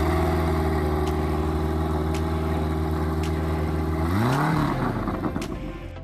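An engine running, rising in pitch at the start and then holding a steady speed, with a brief rise and fall in pitch about four seconds in before it fades.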